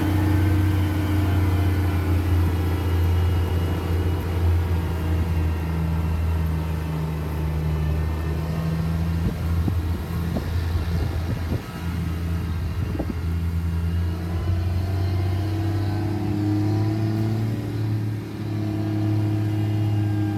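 Diesel engine of a 2003 Challenger MT765 tractor running steadily with a low drone. There are a few faint knocks about halfway through, and the engine note shifts slightly higher near the end.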